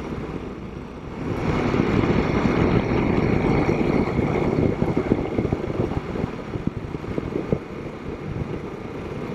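Royal Enfield Himalayan 452's single-cylinder engine running at low RPM while riding, with wind rushing over the microphone. It gets louder about a second in.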